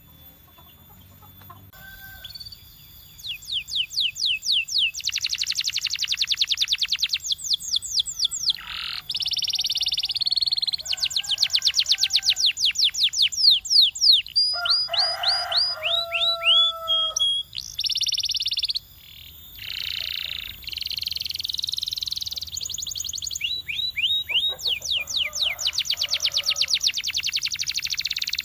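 Canary singing a long, varied song of rapid trills and rolls of fast repeated high notes, with a few lower held notes mixed in. It is faint at first, grows loud about three seconds in, and carries on with short pauses.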